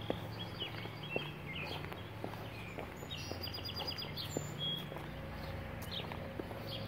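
Songbirds chirping, with a quick run of repeated notes about three seconds in. Footsteps tick along under them, over a steady low hum.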